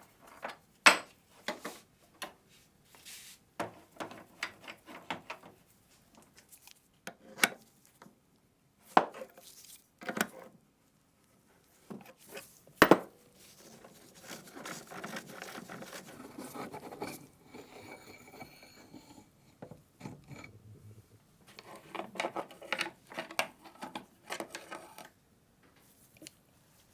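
Hand work on gun parts at a workbench: scattered sharp clicks and knocks of parts and tools being set down, the loudest about halfway through. Then a steady rubbing or scraping runs for several seconds, followed near the end by a quick run of light taps.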